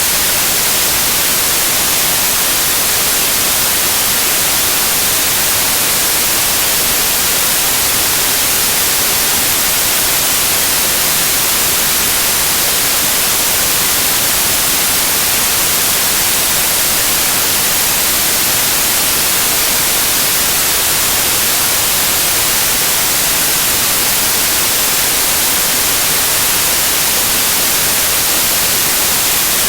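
Loud, steady white noise: an even hiss across the whole range, brightest in the highs, with no change.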